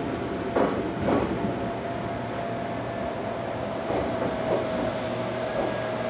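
Ohmi Railway electric train heard from inside, running along the track with steady rumbling running noise and a thin steady whine. A couple of sharp knocks about a second in come from the wheels over rail joints.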